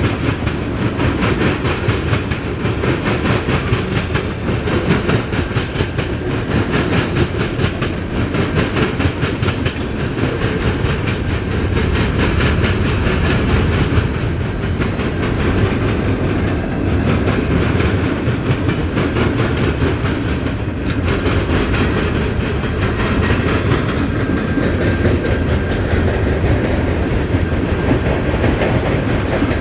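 Freight train cars rolling past close by, their steel wheels clattering steadily and loudly over the rails with a dense run of rapid clicks.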